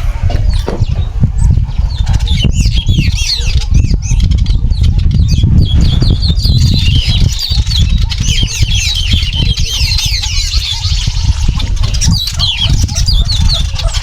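Many small birds chirping in quick, overlapping calls that get busier partway through, over a loud, steady low rumble of wind buffeting the microphone.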